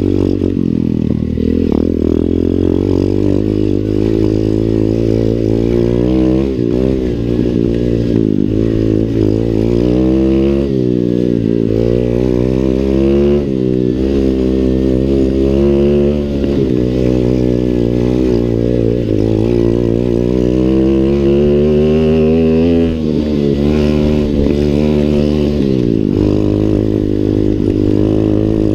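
125 cc Lifan single-cylinder pit bike engine being ridden, its revs climbing and dropping again and again as the rider accelerates and backs off. A longer climb ends in a sudden drop near the end.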